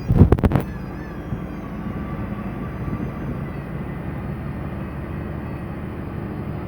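BharatBenz truck running steadily on the road, a low engine and road drone heard from in the cab. A short burst of loud knocks comes right at the start.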